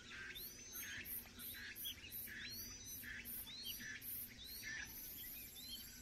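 A bird calling with short rising whistled notes, repeated about once or twice a second, over an insect's fast high pulsing of about three pulses a second.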